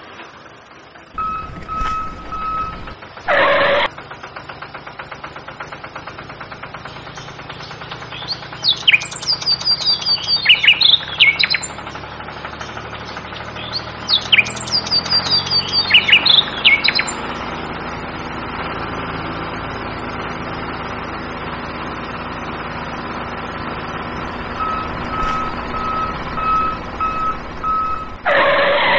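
A small motor running steadily while a miniature model tractor drives. Short evenly spaced beeps come about a second in and again near the end, and two bursts of bird chirps fill the middle. A short loud whoosh comes a few seconds in and again just before the end.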